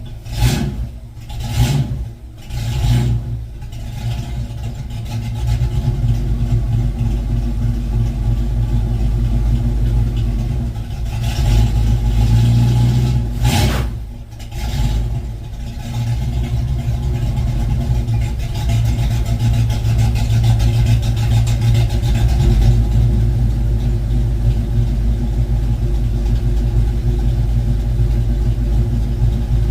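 1972 Ford Mustang Mach 1's V8, fitted with a Crane 2040 cam and a Black Widow Race Venom muffler on a single 3-inch exhaust, running steadily. Several brief louder swells come in the first few seconds and again about 13 to 15 seconds in.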